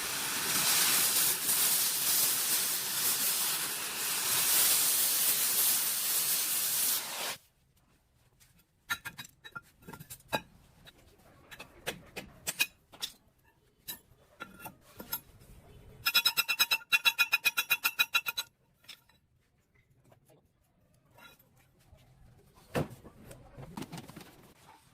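Steady loud hiss of a spray or air jet that cuts off suddenly about seven seconds in. Then scattered light clicks and taps, and a run of rapid, ringing ticks lasting about two seconds.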